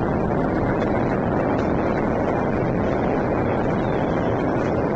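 Fireworks and firecrackers going off all around the city in a dense, continuous barrage, with no single bang standing out. They blend into a steady din with a faint crackle on top.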